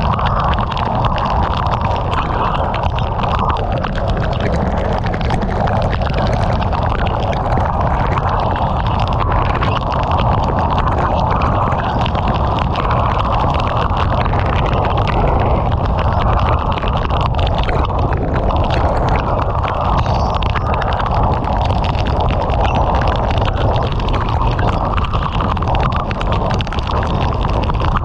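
Heavy rain pelting a moving car in a thunderstorm, a dense steady patter over the low rumble of the car and its tyres on the wet road.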